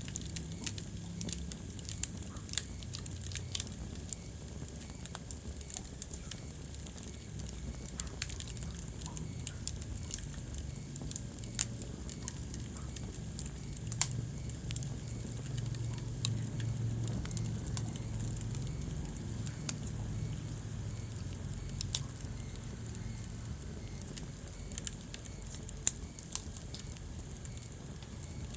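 Wood fire in a fireplace crackling, with sharp pops every second or so over a low, steady rumble of flame. The loudest pop comes near the end.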